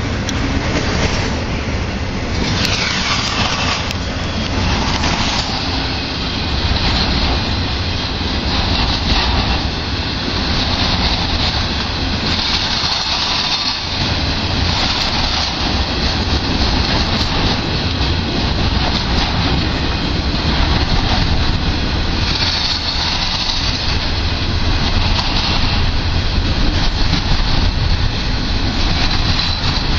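Intermodal freight train rolling past: a steady, loud rumble of steel wheels on rail as trailer-on-flatcar and double-stack container cars go by.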